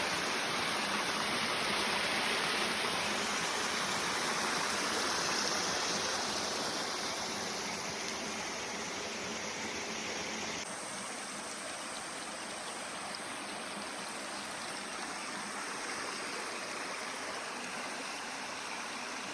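Creek water rushing steadily over rocks and cascades, a little quieter after an abrupt change about halfway through.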